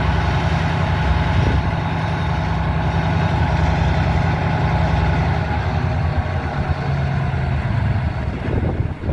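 Diesel locomotive engine running steadily close by, a low drone that eases slightly near the end.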